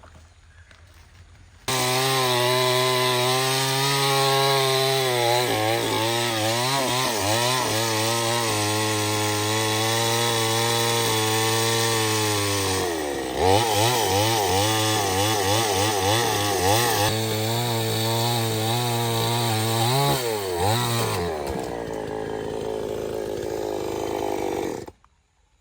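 Stihl 070 two-stroke chainsaw running at high revs in a cut, its pitch wavering as the chain bogs and clears in the wood. The pitch drops briefly about halfway and picks up again, the saw falls away a few seconds before the end, and the sound stops abruptly.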